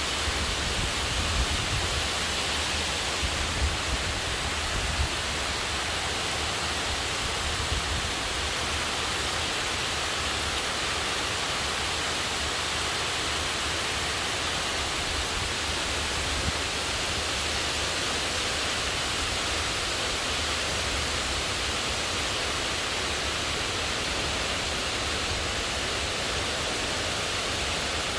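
Heavy rain falling, a steady even hiss, with some low rumbling in the first several seconds.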